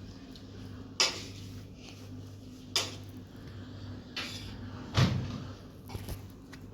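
Three sharp knocks, about two seconds apart, with a few fainter ones between, over a steady low hum.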